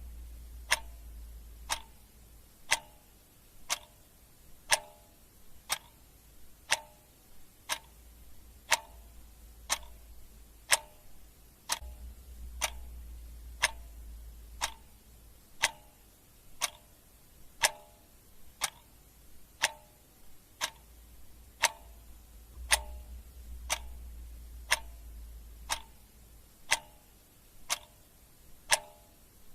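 Clock ticking steadily, about one tick a second, with a faint low rumble swelling and fading underneath.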